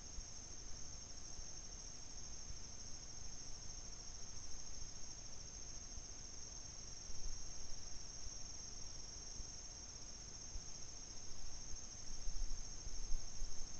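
Steady high-pitched chorus of night insects, unbroken throughout, with a brief low rumble near the end.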